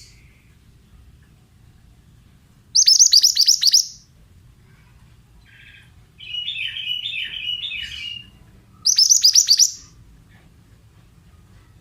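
Mantenan bird song: two loud bursts of rapid, high chipping notes about six seconds apart, with a lower, quieter warbling chatter between them.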